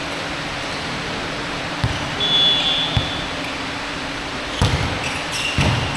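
Basketball bouncing on a gym court floor, heard as a few separate thumps over steady hall noise, with a brief high-pitched tone about two seconds in.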